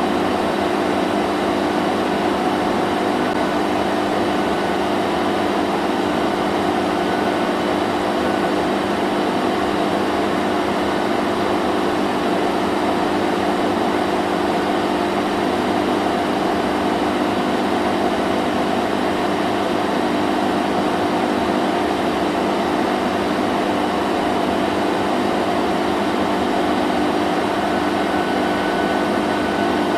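Vacuum cleaner running steadily: a constant motor hum under a broad whooshing hiss, with no change in pitch or level.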